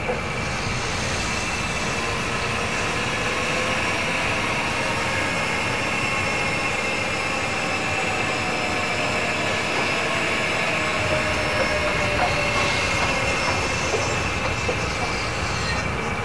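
A train running on rails: a steady, even rumble with faint drawn-out high tones of wheel squeal over it.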